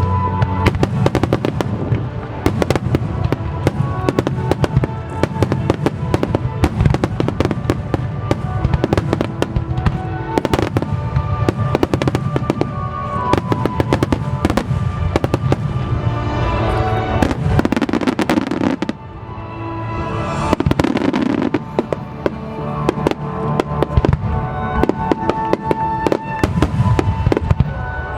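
Starmine firework barrage: dense, rapid bursts and crackles of aerial shells over music played through the show's loudspeakers. The bursts ease off briefly about nineteen seconds in, then build up again.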